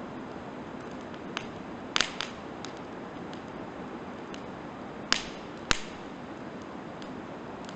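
Firewood burning in a campfire, crackling: sharp pops and snaps over a steady hiss, with a pair of loud pops about two seconds in and two more, the loudest, after about five seconds.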